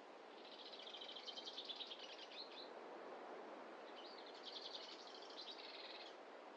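A songbird singing two rapid trilled phrases, each about two seconds long, the first starting about half a second in and the second about four seconds in, over a faint steady hiss of forest ambience.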